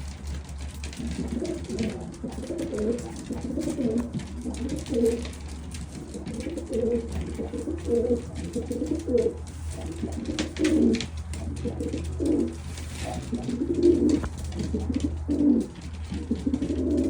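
Homing pigeons cooing over and over, several calls overlapping in low, rolling phrases, over a steady low hum.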